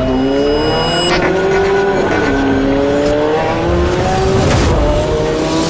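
Car engine accelerating hard through the gears, its pitch climbing steadily and dropping back at each upshift, about every two seconds.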